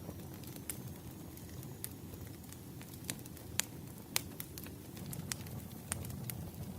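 Wood fire crackling: a steady low rush from the burning logs, with scattered sharp pops and snaps. The two loudest pops come a little past halfway.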